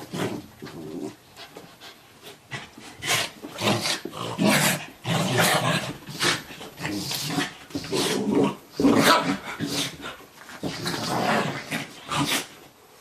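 Two dogs play-fighting, growling and barking in quick irregular bursts.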